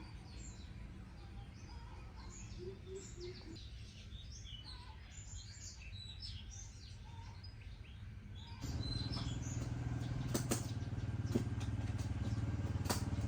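Small birds chirping over a low background hum. About two-thirds of the way in, this switches abruptly to a louder, steady low mechanical drone with a few sharp clicks.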